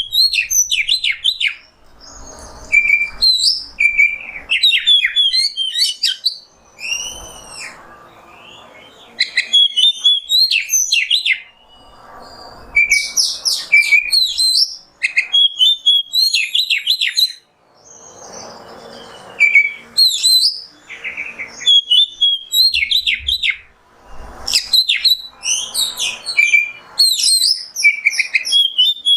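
Oriental magpie-robin (kacer) singing: loud bursts of varied whistles and chirps with quick pitch sweeps, broken by brief pauses.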